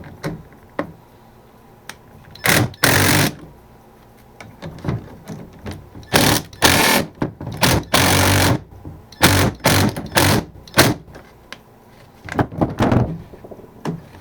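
A small power tool's motor running in short bursts, about eight in all, most of them clustered in the second half, while a hose clamp is being tightened down; small clicks and handling knocks come between the bursts.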